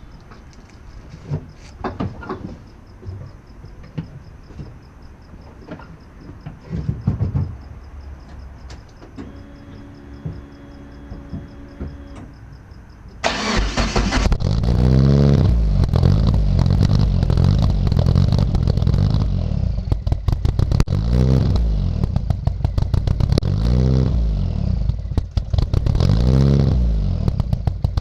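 Mitsubishi Lancer Evolution III rally car's turbocharged four-cylinder being started for the first time. First come a few clicks and knocks and a short steady hum. About halfway through, the engine catches suddenly and runs loudly, revved up and down every few seconds.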